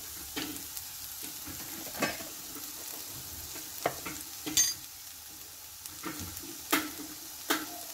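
Boiled Chinese potato (sirukizhangu) pieces with onion frying in oil in a non-stick kadai, a faint steady sizzle, broken by about half a dozen sharp taps spread unevenly through it.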